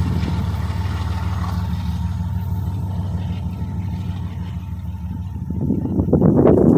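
Short double-stack freight train rumbling past, its rear diesel locomotive pulling away, the low rumble easing off slowly. Near the end a rougher, uneven noise rises over it.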